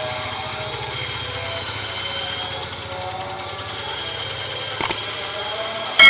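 Ryu RBS 8 bandsaw running with a steady hum. Two light clicks come shortly before the end, then a sudden loud metallic clang that rings on.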